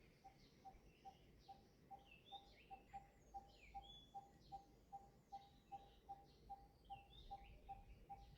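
Faint birdsong: scattered high chirps and whistles over a single steady note repeated evenly about three times a second.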